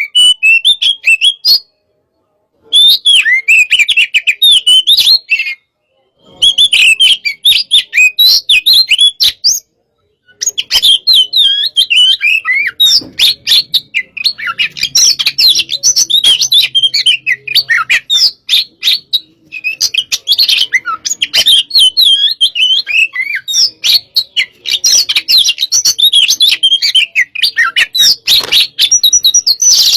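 Oriental magpie-robin (kacer) singing loudly in the fast, aggressive 'hot-type' style: a rapid run of varied whistles and chirps. The song breaks off for a moment about 2, 6 and 10 seconds in, then runs on without a pause.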